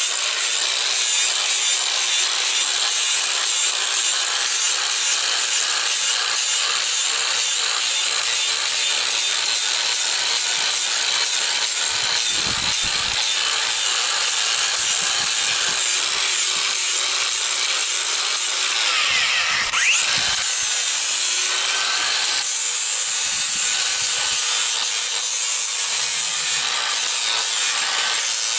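A power grinder with an abrasive disc grinding down a horse's hoof wall: a steady, continuous abrasive hiss with a faint motor tone underneath.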